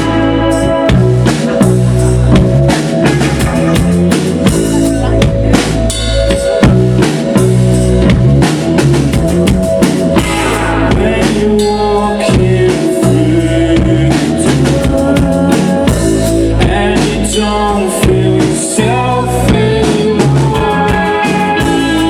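Live band playing the instrumental opening of a song, with a loud drum kit beating out the rhythm under sustained pitched instruments and no vocals.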